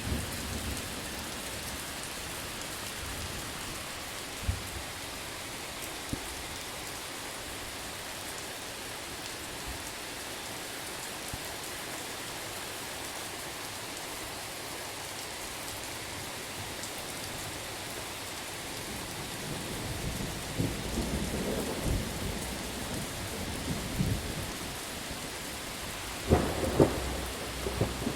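Steady rain falling, with a low rumble of thunder that builds in the second half and a couple of sharp cracks near the end.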